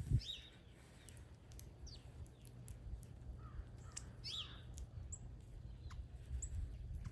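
Backyard birds calling: a few short, scattered chirps and quick falling call notes, over a faint steady low rumble.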